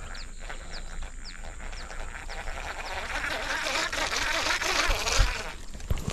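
Outdoor lakeside sound: a bird's short falling chirps, about two a second, over the first few seconds. Then a rustling hiss swells and a low thump comes about five seconds in, as a baitcasting rod is swung for a cast.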